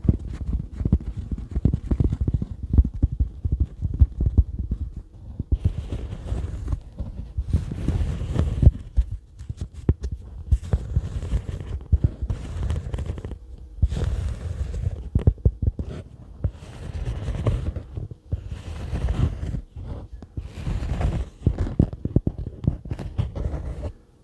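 Rapid, irregular fingertip tapping close to the microphone, dull and deep-toned, with several short stretches of scratchy noise mixed in.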